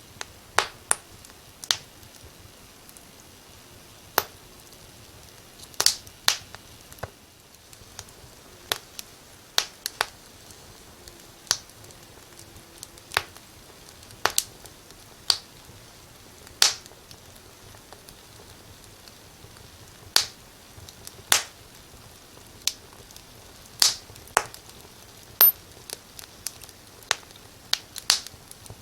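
Wood fire in a fireplace crackling: irregular sharp pops and snaps, about one a second and sometimes in quick pairs, over a faint steady hiss.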